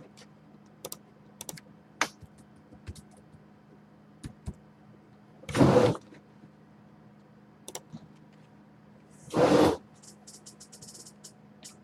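Trading cards being handled: scattered light clicks and taps, and two short rustling swipes, one near the middle and another about three and a half seconds later. A faint steady low hum sits under it all.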